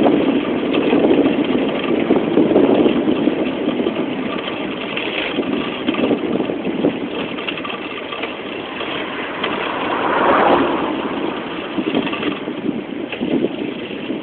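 Wind buffeting the microphone while riding, an uneven low rushing noise that swells and fades, with a brief surge about ten seconds in.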